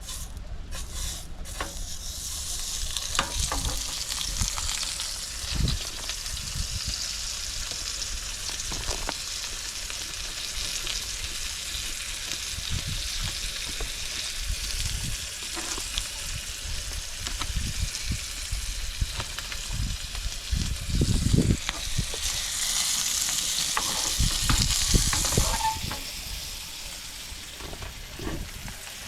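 Food sizzling in a hot frying pan, a steady hiss with scattered knocks. The sizzle swells for a few seconds near the end, then drops back.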